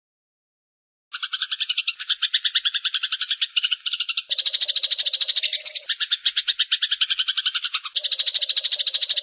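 Eurasian tree sparrows chattering in a fight call: a fast, unbroken run of harsh chirps, about ten a second, starting about a second in after a gap of silence.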